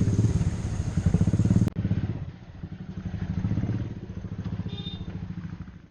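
Motorcycle engine running with a rapid, even beat of firing pulses. The sound drops suddenly about a second and a half in, then the engine carries on more quietly.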